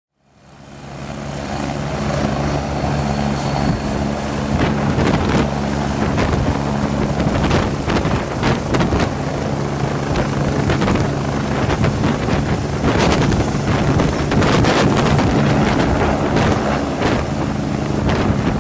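Helicopter running, its rotor chopping over a steady engine hum with a high whine above it. The sound fades in from silence at the start.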